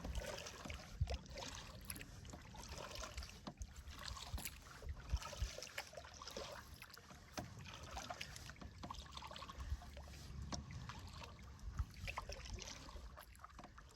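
Double-bladed paddle strokes moving a solo canoe: water splashing and trickling off the blades at an irregular pace.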